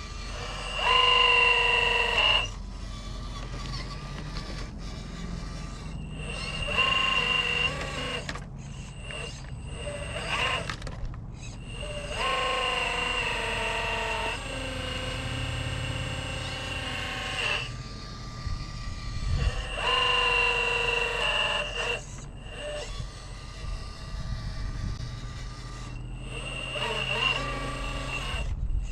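Electric motor and geared drivetrain of an RC rock crawler whining in short stop-and-go spurts of one to two seconds, about six times, over wind rumbling on the microphone.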